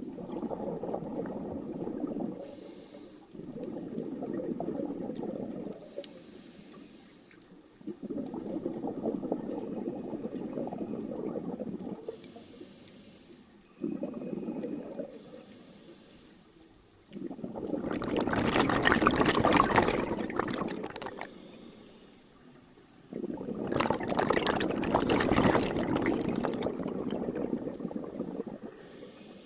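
Scuba diver breathing through a regulator underwater: a short faint hiss on each inhale, then a longer burst of bubbling exhaust on each exhale, about every five to six seconds. The last two exhales, past the middle, are much louder and brighter.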